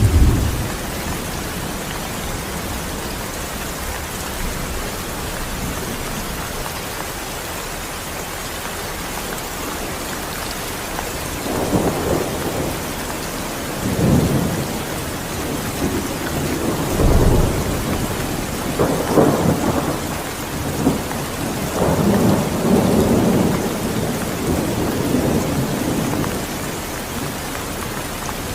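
Steady heavy rain falling, with rolling thunder. A loud rumble comes right at the start, and from about halfway on there are repeated swelling rumbles over the rain.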